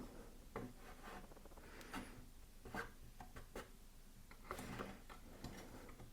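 Faint scattered knocks and soft scraping as a piece of wood is shifted into position on a pillar drill's table.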